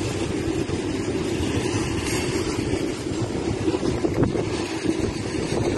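Loaded aggregate hopper wagons of a freight train rolling past on the rails: a steady rumble of wheels on track, with a few knocks about four seconds in. Wind is buffeting the microphone.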